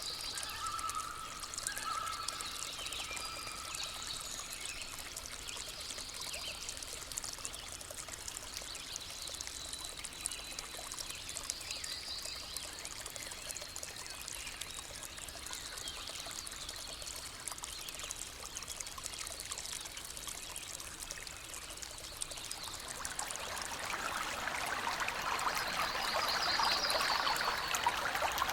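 A stream trickling and flowing steadily, with birds chirping now and then over it; the water swells louder near the end.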